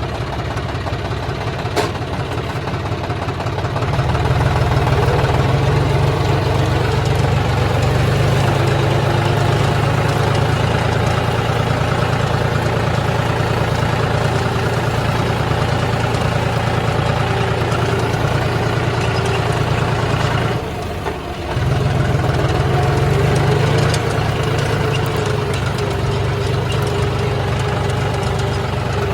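Diesel engine of harvesting machinery running steadily. It grows louder about four seconds in and drops for about a second near the two-thirds mark before picking up again.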